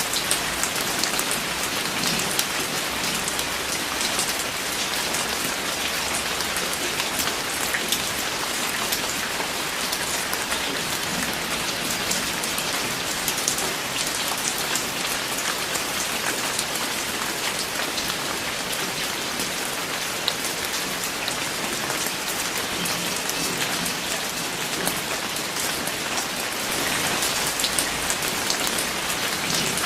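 Steady rain falling, a dense hiss with many individual drops pattering on a surface.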